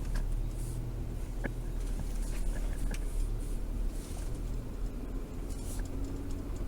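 Patrol car driving, a steady low engine and road rumble heard from inside the cabin, with a few faint clicks.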